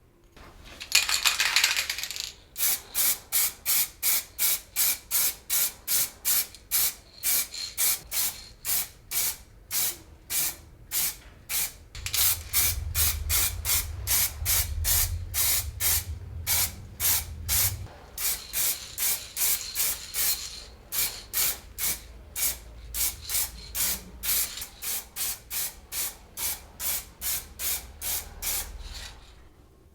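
Spray painting in short, rapid bursts: one longer spray about a second in, then quick pulses about two a second, with a low rumble for several seconds midway.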